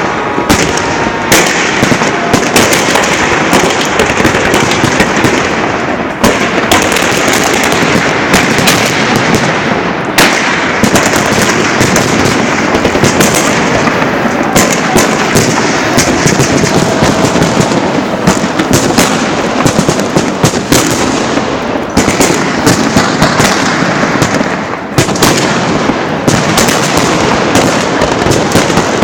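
Fireworks salute launchers firing a dense, continuous barrage of rapid, overlapping bangs and crackling shell bursts.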